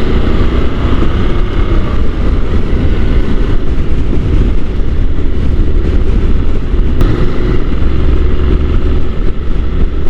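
Honda NC750 parallel-twin motorcycle running at steady road speed, heard from the rider's helmet microphone, with heavy wind noise over the engine.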